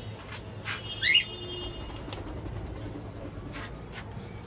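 A bird gives one short high call that wavers and falls in pitch, about a second in, with a few faint taps.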